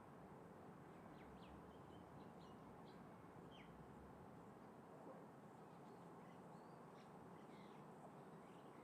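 Faint outdoor ambience: small birds chirping in scattered short, high notes over a low, steady rush.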